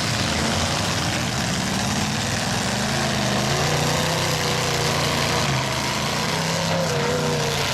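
Several demolition derby trucks' engines running at once, their pitch rising and falling as they are revved, over a steady wash of noise.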